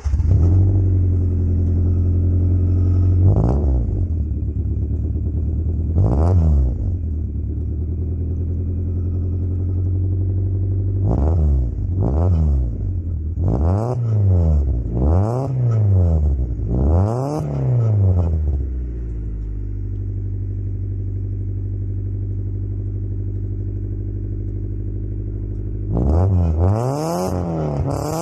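Honda Civic 1.4i S four-cylinder engine with a custom exhaust idling fast just after a cold start, blipped in short revs that rise and fall back to idle: two single blips in the first seven seconds, a quick run of about seven blips a little past ten seconds in, then steady idle, then another few blips near the end.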